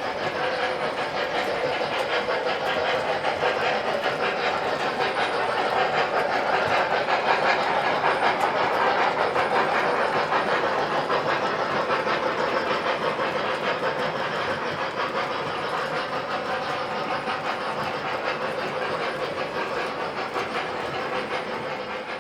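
Model train running on its track: a steady rolling rumble with rapid fine clicking from the wheels, growing louder toward the middle and slowly fading after.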